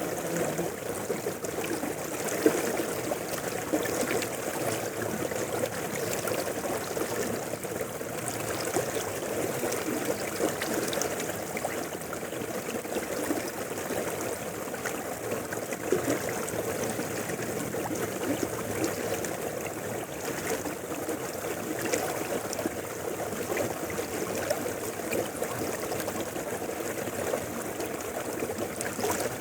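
A shallow mountain river flowing over rocks: steady rushing and gurgling water with small splashes.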